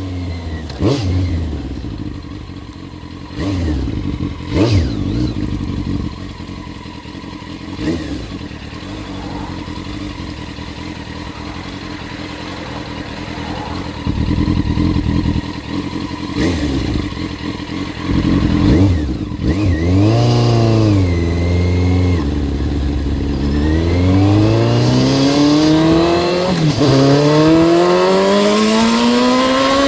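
Yamaha Fazer 600's inline-four engine running through a newly fitted aftermarket silencer, first at low revs with a few sharp knocks, then revved up and back down. In the last few seconds it accelerates hard, its pitch climbing steadily, dipping briefly at a gear change, and climbing again.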